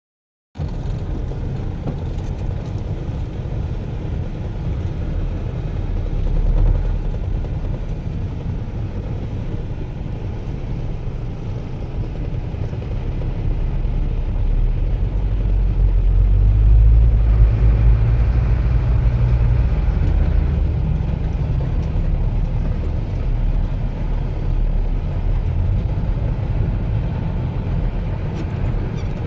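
Heavy diesel machinery running steadily with a deep rumble, as an excavator loads trucks. The engine works harder and louder from about 14 to 21 seconds in, then settles back.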